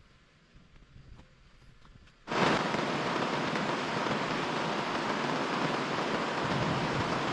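A few faint small clicks, then about two seconds in a loud, steady hiss of heavy rain starts abruptly and keeps on.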